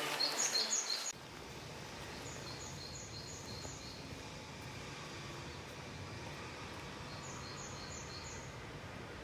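Steady rushing of a river flowing through a gorge, with a small bird giving quick series of high chirps three times. The first second carries the end of background music, which cuts off abruptly.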